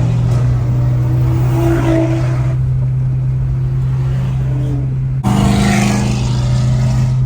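Car engines running during a cruise: a steady low engine drone, with other engines revving and easing off above it. The sound changes abruptly about five seconds in.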